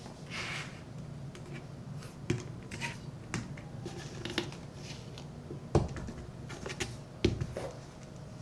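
Leather boots being handled: scattered light clicks and knocks with brief swishes, and two sharper thumps near six and seven seconds in.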